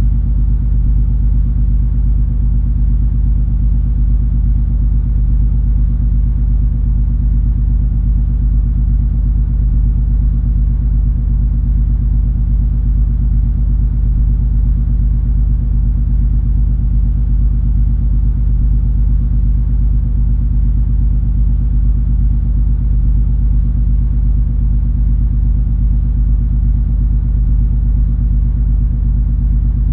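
The MS Color Fantasy cruise ferry's engines and machinery running, a steady, deep rumble with a low hum that does not change.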